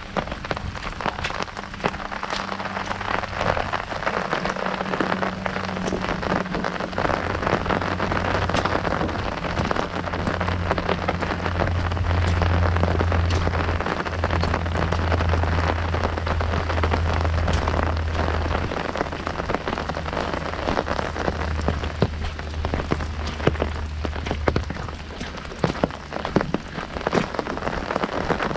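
Heavy rain drumming on an umbrella canopy, a dense patter of drops with many sharp individual ticks. A low steady rumble rises through the middle and fades again near the end.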